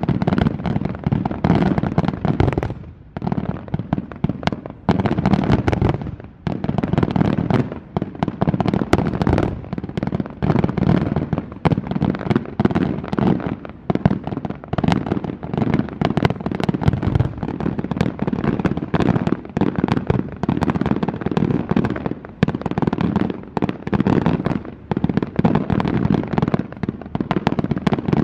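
Aerial firework shells bursting in rapid, overlapping succession: a dense, continuous barrage of bursts.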